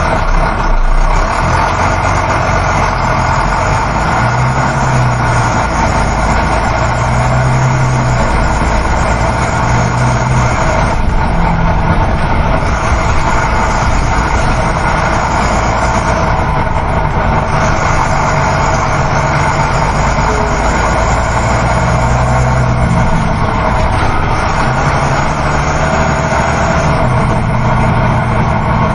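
Coach bus on the road, heard from inside the cabin: a steady engine hum under road and wind noise. The engine's low note comes and goes and shifts in pitch every few seconds.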